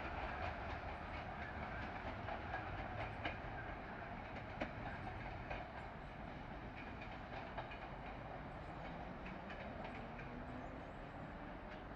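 A train running along the track, wheels clicking over the rails, the sound gradually fading.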